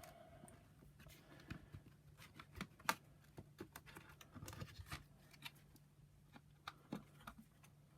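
Faint scattered clicks and taps of plastic parts being handled as the drive belt is fitted on a Shark power nozzle, the sharpest click about three seconds in, over a faint steady low hum.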